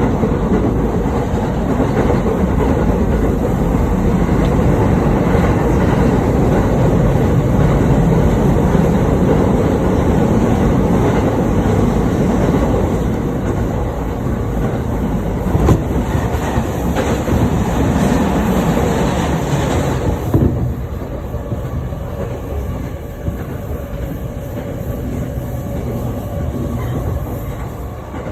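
Running noise of a JR Chūō-Sōbu Line commuter train heard from inside the car: a steady rumble of wheels on rails with some clickety-clack. The noise drops suddenly about twenty seconds in and stays quieter.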